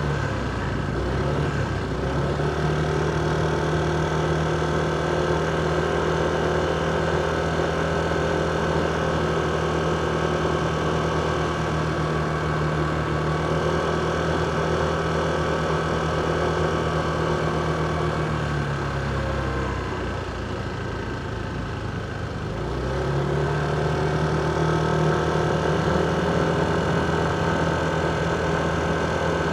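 Motorcycle engine running steadily as the bike is ridden, heard from on board. About two-thirds of the way through its note drops and quietens as the throttle eases off, then climbs again a few seconds later as it picks up speed.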